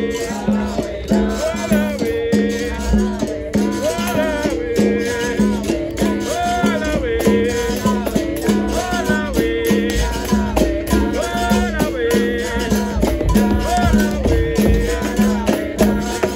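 Capoeira roda music: voices singing over a berimbau's repeating note, with a rattling shaker and hand percussion.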